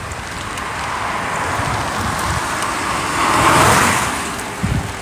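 A car passing on a rain-soaked road, its tyre hiss swelling to a peak about three and a half seconds in and then fading, with wind rumbling on the microphone.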